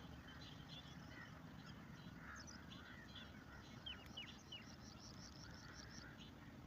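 Faint outdoor ambience of several birds calling: scattered short chirps, a few quick falling whistles about four seconds in, then a rapid run of repeated chirps, over a low steady rumble.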